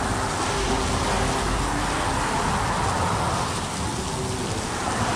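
Steady rain hiss, with a low rumble swelling and fading in the first couple of seconds.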